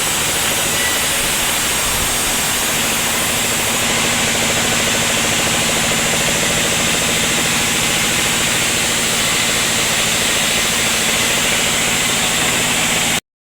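Sawmill machinery running steadily: a constant engine-like drone with a loud hiss over it, breaking off abruptly for a moment near the end.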